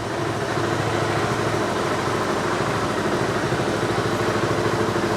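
2019 Yamaha YP400 XMAX maxi-scooter's single-cylinder four-stroke engine idling steadily after a start-up, with an even pulsing beat.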